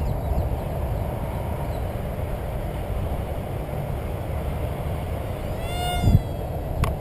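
Steady low rumble of outdoor background noise. About six seconds in comes one short animal call, cat-like, whose pitch rises and then falls, followed by a sharp click.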